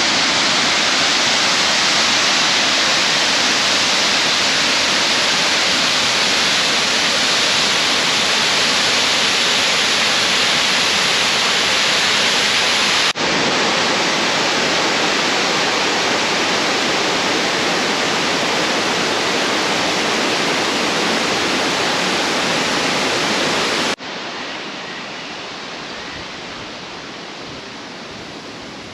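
Steady rush of water from a waterfall, Millstream Falls, which may be running fuller than usual after recent rain. The sound breaks off abruptly twice, and after the second break, about two-thirds of the way through, it is noticeably quieter.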